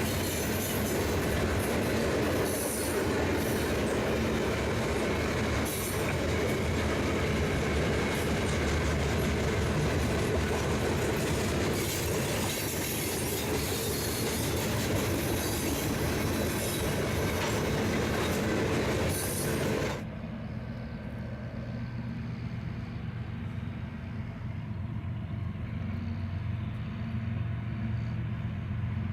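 Freight train cars rolling past at track level, a dense, steady clatter of wheels on rail. About two-thirds of the way through, it gives way abruptly to a quieter, steady low rumble.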